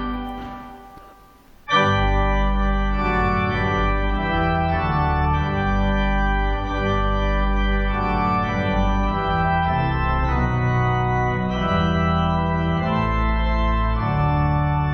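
Organ music playing sustained chords with a deep bass, changing every second or so. It fades out briefly at the start and comes back in strongly a little under two seconds in.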